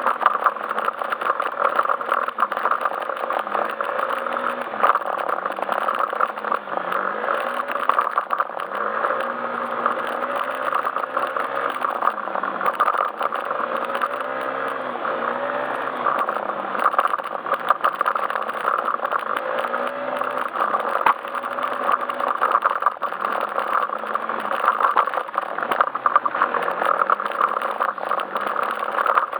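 Yamaha Majesty S scooter's single-cylinder engine running while being ridden, its pitch rising and falling again and again as the throttle is opened and eased, with a constant rattle beneath it.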